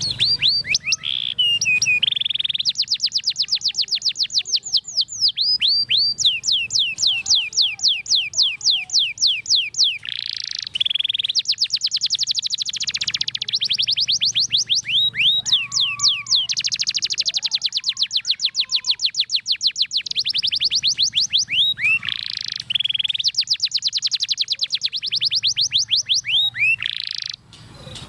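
Domestic canary singing a long, nearly unbroken song of rapid rolling trills. Each trill is a fast run of high, downward-sweeping notes, about ten a second, and the trill types change from phrase to phrase. The song stops suddenly near the end.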